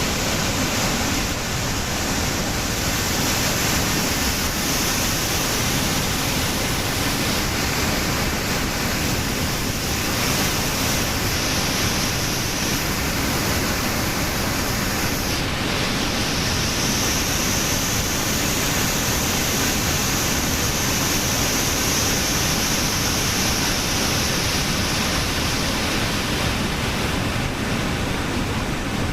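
Steady rushing of water falling down the long cascade of Langfoss waterfall.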